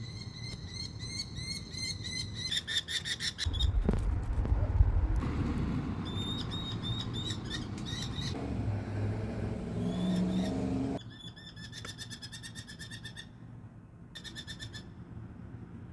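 Merlin giving rapid chattering call series, several bursts of quick evenly spaced notes, the strongest runs near the start and again after about eleven seconds. In the middle, a low rumbling noise with a few scattered single chirps.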